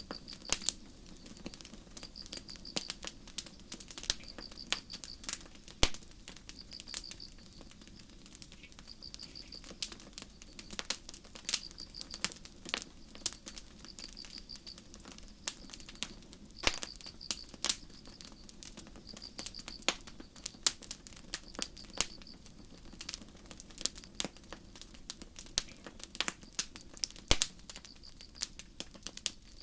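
Campfire crackling with irregular sharp pops, over crickets chirping in short high trills that repeat every second or so.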